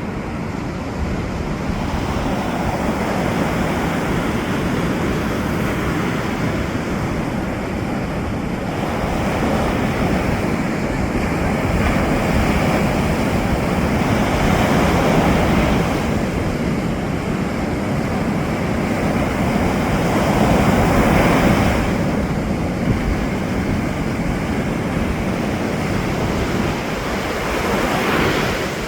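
Ocean waves breaking and washing up as continuous surf, surging louder every several seconds as each wave comes in, loudest a little past the middle.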